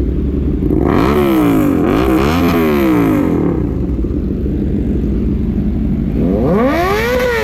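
Big motorcycle engine idling, then revved in a few quick blips, pitch climbing and falling back, about a second in. It settles back to idle and is revved up again near the end.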